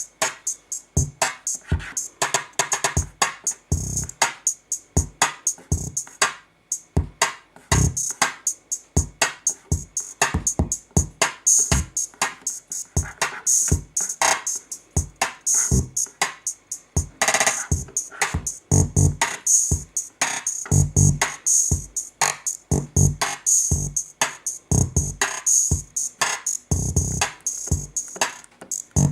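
KORG Kaossilator pocket synthesizer playing electronic drum-machine and synth patterns: a quick, busy run of short beats and notes, with a brief gap about six seconds in.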